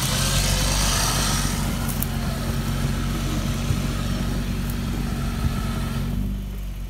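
Stuck pickup truck's engine run under throttle at a steady pitch while the tires churn in snow and ice, trying to drive out; it eases off about six seconds in.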